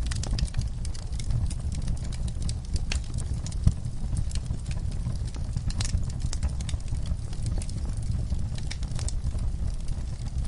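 Wood fire crackling in a fireplace: irregular sharp pops and snaps over a steady low rumble of the flames, with one louder pop a little over a third of the way in.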